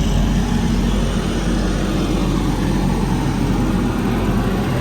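Heavy diesel truck engine idling steadily, a continuous low rumble.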